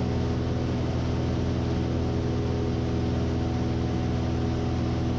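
Steady drone of a Stinson light aircraft's piston engine and propeller heard in the cabin in level flight, a constant low hum of evenly spaced tones with a hiss of airflow above it.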